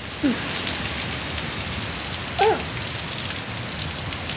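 Heavy rain pouring steadily in a violent thunderstorm. A short voice sound cuts in twice, near the start and about two and a half seconds in.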